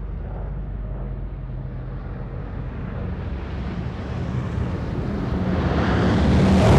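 Propeller aircraft engines droning, growing steadily louder and brighter as the plane closes in, to a peak near the end as it passes close by.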